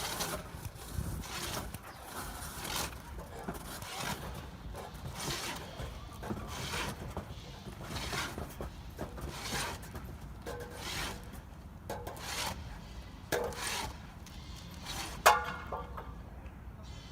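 Repeated scraping or rasping strokes from a hand tool worked back and forth, about one stroke every second, with one sharp knock about fifteen seconds in.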